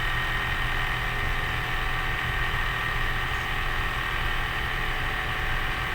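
Truck engine running steadily, a low drone with a steady high whine above it.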